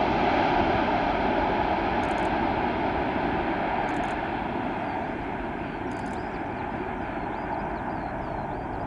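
Jet airliner engine noise from a landing aircraft, a steady rushing roar that slowly fades.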